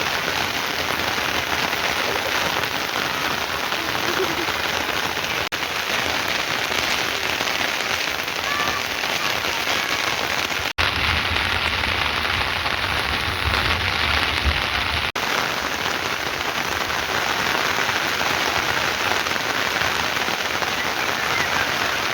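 Heavy rain falling in a steady, dense hiss. It drops out three times for an instant, and there is more low rumble for a few seconds in the middle.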